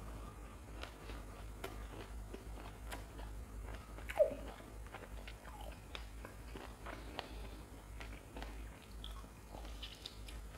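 Close-miked chewing and biting of crisp fried lentil fritters (wade), with scattered crunches and wet mouth sounds. A single louder, short mouth sound comes about four seconds in.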